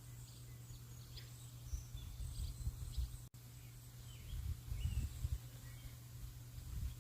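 Small birds chirping with short, scattered calls and brief whistled glides, over a low, uneven rumble. The sound cuts out for an instant a little over three seconds in.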